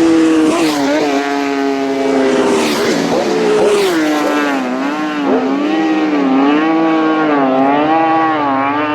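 Road-racing motorcycle engines at speed during practice, the engine note rising and falling again and again as the riders work the throttle. Short whooshes of bikes passing close come about a second in and around three to four seconds in.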